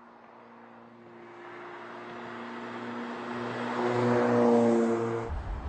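Mercedes-AMG CLA 45 Shooting Brake's turbocharged 2.0-litre four-cylinder engine running with a steady drone that grows louder, loudest about four seconds in. Near the end it gives way abruptly to a low rumble.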